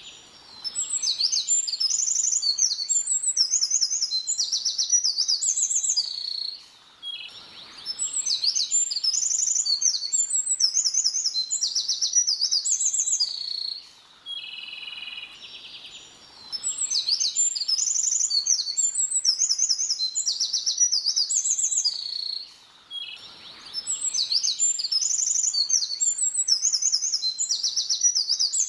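A small songbird singing: a long, rapid series of high, varied notes, given four times in near-identical phrases of about six seconds with short pauses between.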